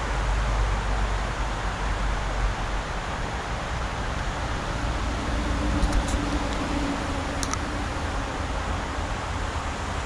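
Rushing water of a mountain river running steadily, with a deep rumble underneath. A couple of faint clicks sound past the middle.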